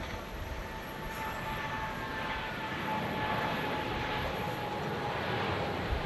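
Jet airliner's engines running, a steady high whine over a rushing rumble that grows gradually louder, with a few faint higher tones sliding down in pitch.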